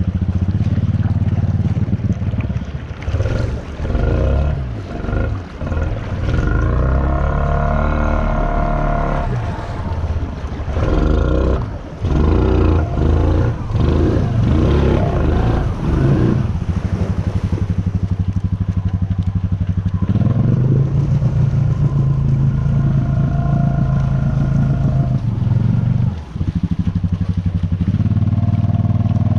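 Honda Rancher 420 ATV's single-cylinder four-stroke engine running under load, revving up and dropping back several times in the first half as the throttle is worked, then running at a steadier speed.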